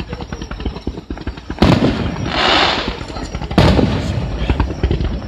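Aerial fireworks going off in quick succession: a steady patter of sharp cracks, with two loud bangs about one and a half seconds in and again two seconds later, each followed by a dense crackling spray.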